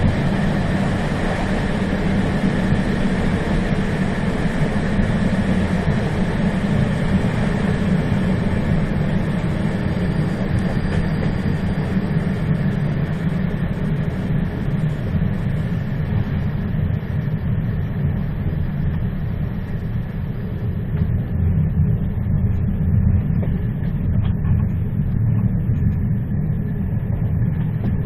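A moving train running on the rails: a steady low rumble. From about halfway through it grows duller as the higher hiss fades away.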